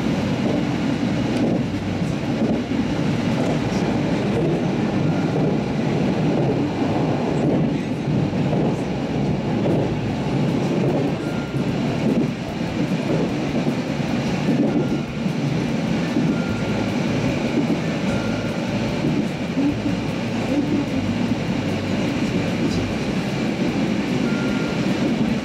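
Electric train running along the line, heard from inside at the front of the train: a steady rumble of wheels on the rails and running gear.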